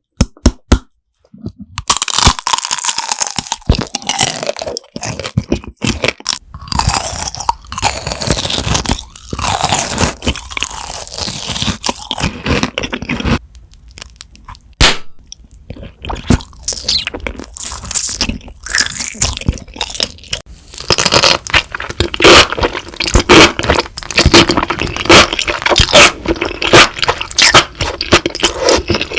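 Crunchy food being bitten and chewed close to the microphone, ASMR-style: a long run of sharp crunches and crackles, thinning out a little past the middle and densest near the end.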